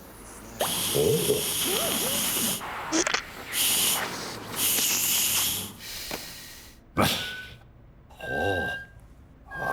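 Cartoon sound effects: several bursts of hissing noise, with short grunting vocal noises between them and a sharp click about seven seconds in.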